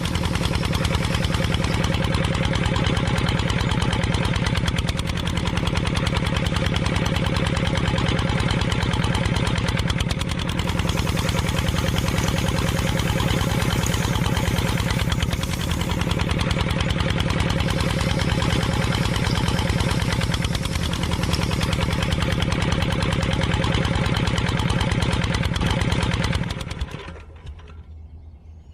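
Engine running steadily with a fast, even beat, then dropping away sharply about two seconds before the end.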